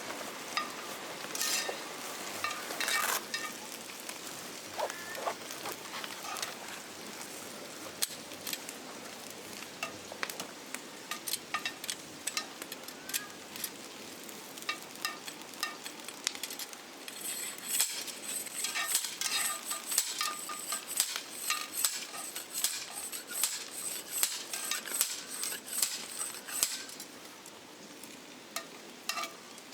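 Food frying in a pan over a campfire, sizzling and crackling, with scattered clinks of utensils. The sizzle grows denser and hissier for about ten seconds in the second half.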